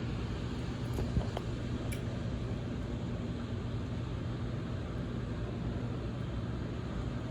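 Steady rain heard through an open window: an even hiss with a low steady hum underneath and a few faint ticks about a second in.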